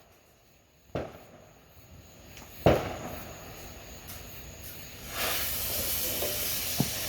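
Two sharp firework bangs, the second louder, then from about five seconds in a steady high hiss, like a firework fountain spraying sparks.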